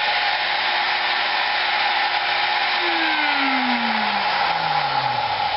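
High-speed rotary tool running steadily, polishing the aluminium cylinder head of a 212 Predator engine during port-and-polish work. A lower hum slides steadily down in pitch through the second half.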